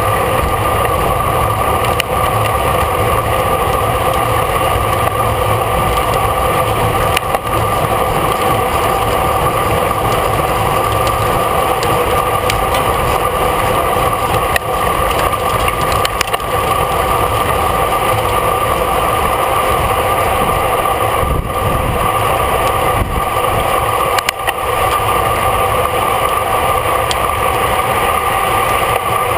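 Steady rush of wind and road noise from a road bicycle riding at race speed, picked up by a camera mounted on the bike, with wind buffeting the microphone.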